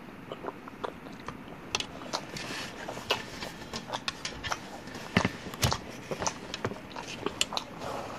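Close-miked chewing and mouth sounds of a person eating lasagna: irregular wet clicks and smacks, sparse at first and getting busier about two seconds in.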